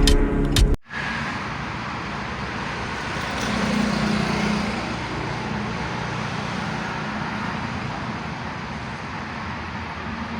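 Steady traffic noise with a low engine hum that swells briefly about four seconds in, after a burst of music cuts off abruptly under a second in.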